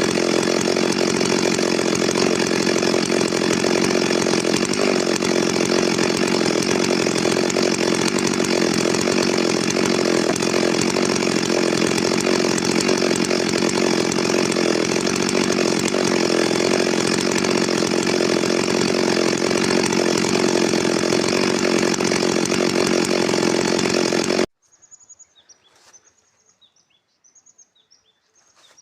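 Stihl MS 382 two-stroke chainsaw running steadily at one pitch. The sound cuts off abruptly about 24 seconds in, leaving faint bird chirps.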